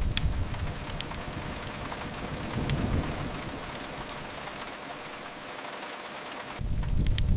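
Steady rain hiss mixed with the scattered sharp crackles and pops of a wood fire. A deep low rumble sets in near the end.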